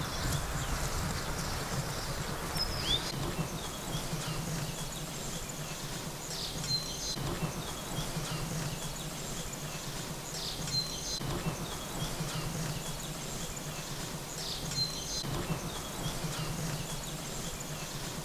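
A bird singing the same short high phrase, a quick figure ending in a brief level note, about every four seconds, over steady outdoor background noise.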